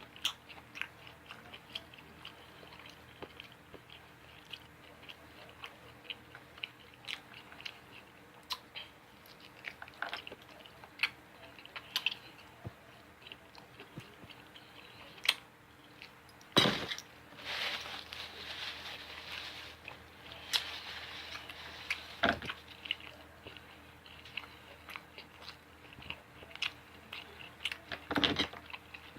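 Close-up chewing and biting of a person eating barbecue ribs: many small wet mouth clicks and smacks, with a louder, rougher stretch of chewing about two-thirds of the way in.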